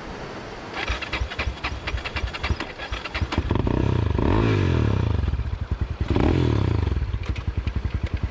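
A 250 cc dirt bike's engine, at first a rapid clatter, then revved hard in rising and falling surges from about three seconds in, as the bike is worked through slippery mud.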